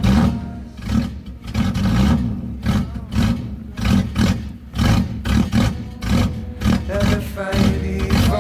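BMW E30 engine starting up and running, its level surging in regular pulses roughly every second, with background music.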